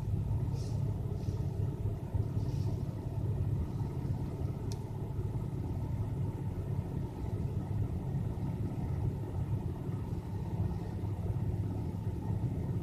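Lada Granta's 21126 1.6-litre 16-valve four-cylinder engine idling steadily in winter cold, warming up after a cold start.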